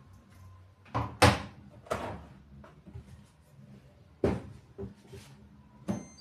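A run of about six sharp knocks and bangs from things in the house being handled, shut or set down. The loudest comes a little over a second in, and two more follow about three seconds later.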